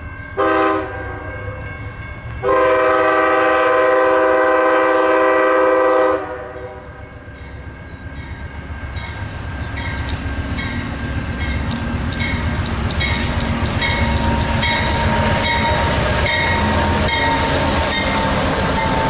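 Amtrak Genesis diesel locomotive sounds its multi-note horn: a short blast, then a long blast of about three and a half seconds. The train then approaches and passes, its rumble growing louder, with regular clicking of wheels over the rail joints.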